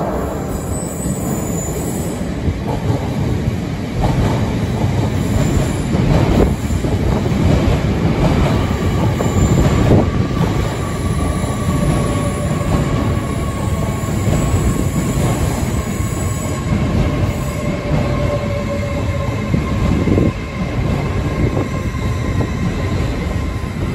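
LNER Azuma Class 801 electric multiple unit running slowly along the platform as it arrives, with a steady rumble of wheels on rail. A faint whine falls slowly in pitch as the train slows.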